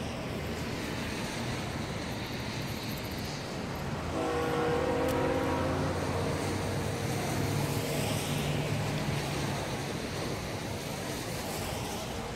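Approaching diesel freight locomotive: a steady low engine rumble, with one horn blast about four seconds in that lasts about two seconds.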